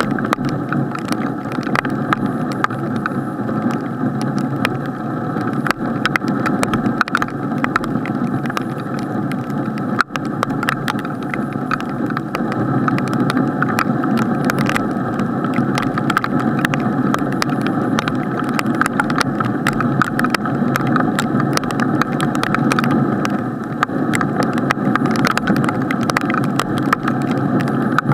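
Rain striking a waterproof action-camera housing: a steady muffled rush with many sharp ticks of drops hitting the case.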